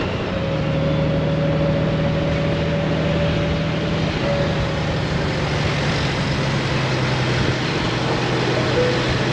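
Honda Gold Wing's flat-six engine running at a steady pitch while riding, under a constant rush of wind and road noise.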